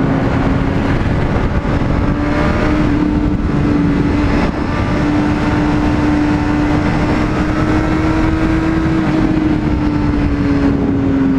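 Honda CBR600RR's inline-four engine running steadily while riding, its pitch creeping up slightly and then dropping near the end as the bike slows, over a heavy rush of wind noise.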